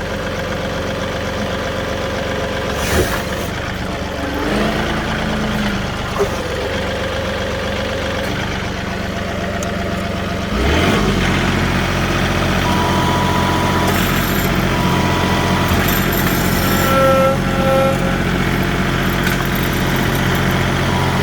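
John Deere 2038R compact tractor's diesel engine running, getting louder about eleven seconds in as it is throttled up and put under load driving onto the couch. Brief steady whining tones come and go over the engine.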